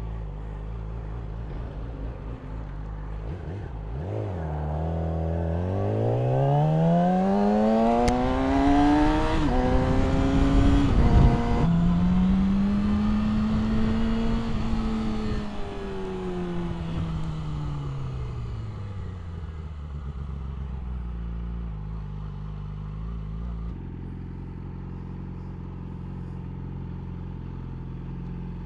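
Yamaha R6 sportbike's inline-four engine idling, then accelerating with rising revs through gear changes, easing off and dropping back to a steady idle.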